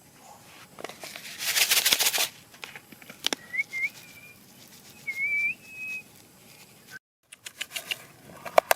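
A brief noisy rustling burst, then two short high whistled chirps, each sliding upward and wavering, with scattered clicks and taps around them.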